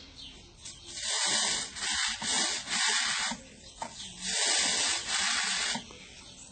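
Liquid sprayed onto a bird cage being washed, in about six hissing bursts of roughly half a second each, in two groups with a pause between.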